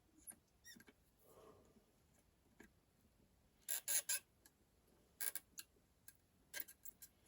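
Light, sharp clicks and taps of small hand tools such as a soldering iron tip or tweezers against a circuit board and its components while a resistor is being desoldered. They come in small clusters of two or three, the loudest about halfway through.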